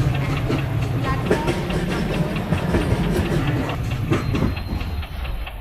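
Train rolling along the track: a steady low rumble with the rapid clickety-clack of wheels over rail joints.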